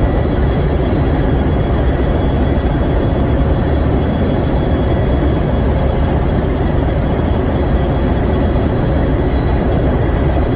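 Large generator engine running steadily: a loud, even engine-room drone heavy in the low end, with faint steady whines above it.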